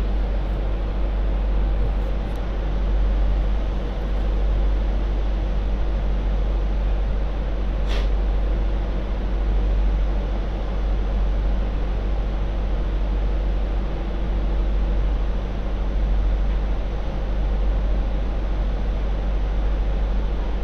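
MTR Light Rail Phase IV train running at a steady pace, heard as a continuous rumble with a level motor hum. A single sharp click comes about eight seconds in.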